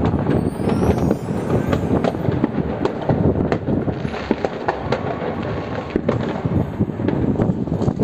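Many fireworks going off at once: a continuous rumble of overlapping bangs with sharper cracks scattered irregularly through it.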